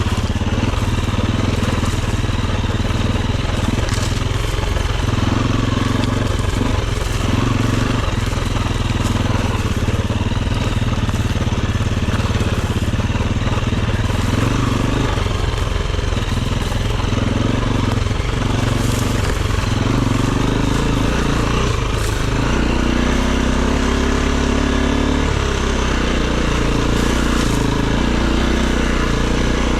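Dirt bike engine running continuously as the bike is ridden off-road, its note shifting up and down with the throttle. A few sharp knocks cut in along the way.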